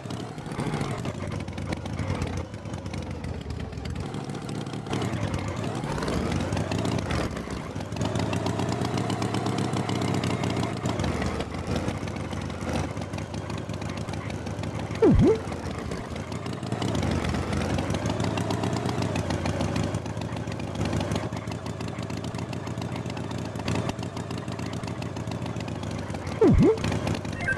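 Engine running, its pitch slowly rising and falling as it revs up and down. Two short, loud, sharp sounds cut in, one about halfway through and one near the end.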